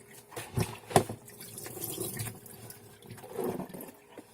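Water splashing and dripping in a sink as a wet dyed garment is rinsed and handled by hand, in irregular bursts, with a sharp knock about a second in.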